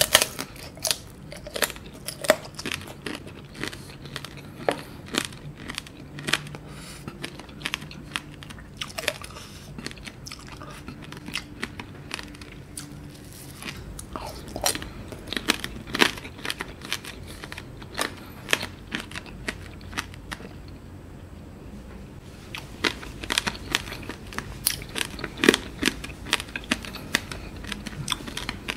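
Close-up crunching and chewing of candied strawberries (tanghulu): the hardened sugar coating cracks between the teeth with many sharp crunches, mixed with wet chewing. The crunches thin out for a couple of seconds about two-thirds through, then come thick again.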